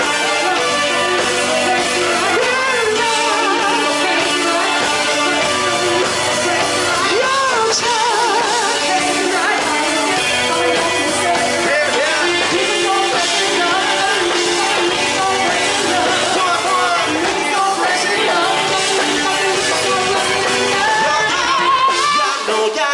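A band playing a pop-rock song, with a singer and guitar.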